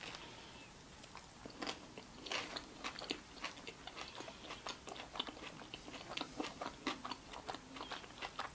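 A bite taken from a Subway sandwich on seeded bread, then chewing: many small irregular mouth clicks and crunches, several a second.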